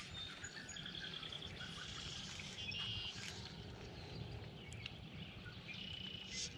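Faint birdsong over quiet outdoor background noise: a few short, high trills and chirps, about one and a half, three and six seconds in.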